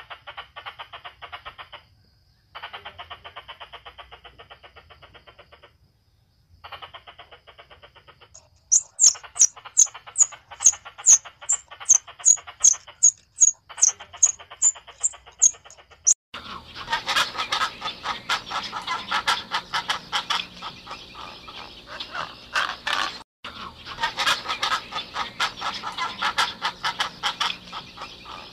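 Animal calls: short bursts of rapid, rattling chatter with brief pauses. About eight seconds in, a run of sharp high chirps starts at roughly two a second. From about halfway through, a louder, denser chorus of chattering calls takes over.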